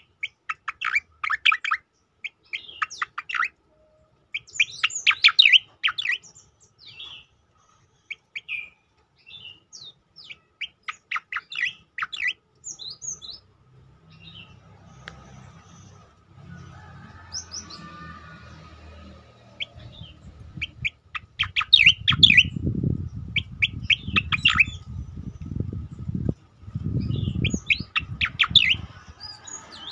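Cica-koreng (striated grassbird) singing its 'tembakan': rapid bursts of sharp, chattering high notes repeated in clusters with short pauses. In the second half a low rumbling noise runs under the song and is loudest near the end.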